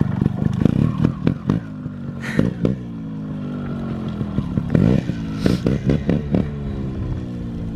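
Dirt bike engine idling and being blipped on the throttle, several short revs with the pitch sinking back toward idle between them, with a few sharp clatters.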